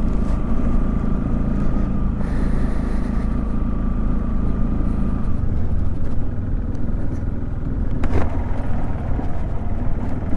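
Motorcycle riding along a rough dirt road: the engine runs steadily under a heavy low rumble of wind on the microphone, with a faint steady whine for the first five seconds or so and a brief knock about eight seconds in.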